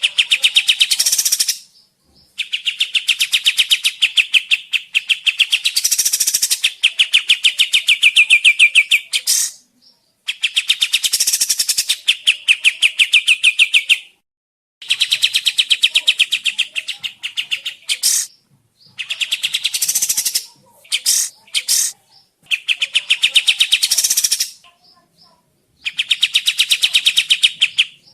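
Kapas tembak songbird singing: long, fast trilling phrases of rapidly repeated notes, each lasting a few seconds, with short pauses between them and a few brief bursts in the middle.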